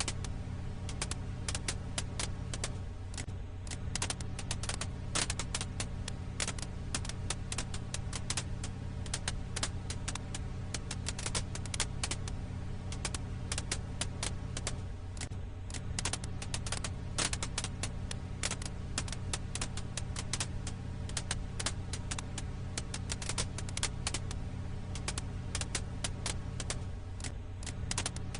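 Firewood crackling: a dense stream of sharp pops and snaps over a steady low rumble. It is a short loop that repeats about every twelve seconds.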